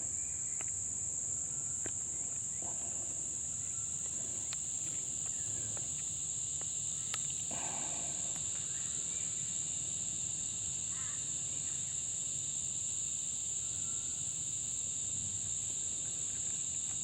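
Steady, unbroken high-pitched chirring of crickets. Over it come a few faint light clicks and soft rubbing as hands work a rubber dust boot down a brake caliper piston.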